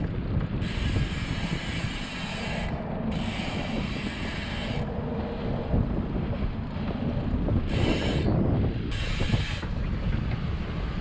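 Bicycle ride with wind rumbling on the microphone. Four times, for a second or two each, a rapid high ticking starts and stops sharply, typical of a bicycle freewheel clicking while coasting.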